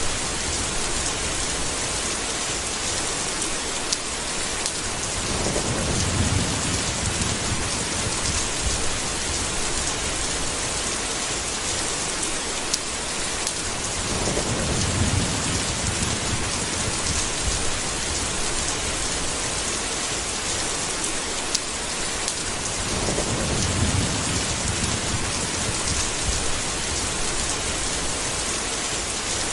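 Steady heavy rain hissing, with three low rolls of thunder about eight or nine seconds apart.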